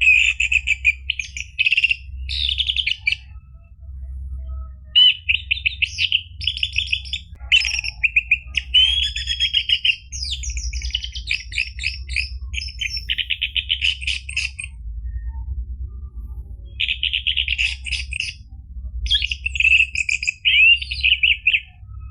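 Orange-headed thrush singing: bursts of fast, varied phrases of rapid chattering trills and whistles, with two short pauses about four and sixteen seconds in, over a low steady hum.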